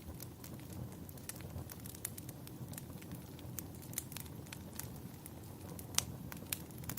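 Wood fire burning in a fireplace: a steady low rumble of the flames with irregular sharp crackles and pops, the loudest pop about six seconds in.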